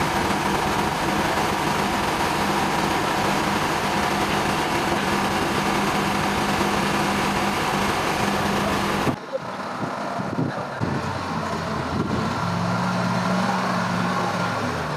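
Engine-driven machinery running loudly. About nine seconds in, the sound cuts abruptly to a steadier engine hum with a low drone.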